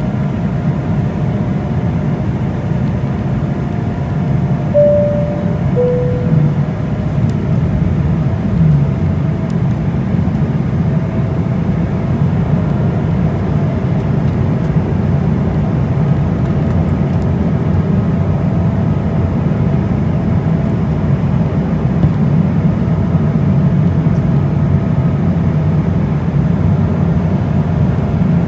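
Steady in-flight cabin drone of an Embraer E190 jet, a low rush of engines and airflow with faint steady tones in it. About five seconds in, a two-note chime sounds, high then low.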